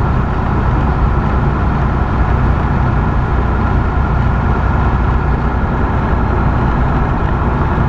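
Semi truck's diesel engine and road noise while driving on the highway, a steady, unbroken drone.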